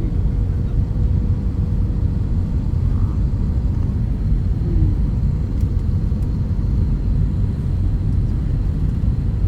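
Steady low rumble of an airliner's engines and airflow heard inside the passenger cabin, with a faint steady hum running under it.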